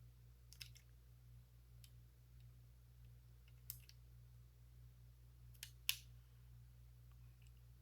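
Near silence with a handful of faint, sharp clicks of plastic Lego pieces being handled and snapped together, the sharpest about three quarters of the way in.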